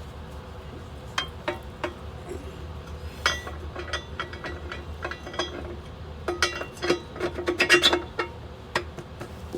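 Steel parts of an excavator thumb bracket clinking and tapping against each other and against tools, in scattered knocks that bunch into a quick run of clinks near the end, over a steady low machine hum.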